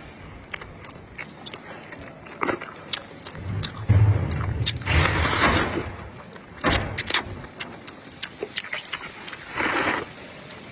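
Close-miked eating of noodle soup: scattered clicks of biting and chewing, a low thump about four seconds in, and two longer slurps about five and ten seconds in.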